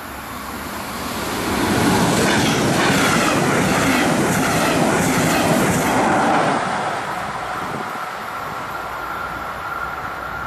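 Electric push-pull regional train of double-deck coaches passing close by, with wheels clacking over the rail joints. It swells over the first two seconds, holds loud for about four seconds as the coaches and locomotive go past, then drops away quickly as the train leaves.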